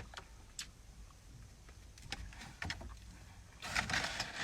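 Quiet eating sounds: a few soft mouth clicks, then a short noisy burst a little past halfway.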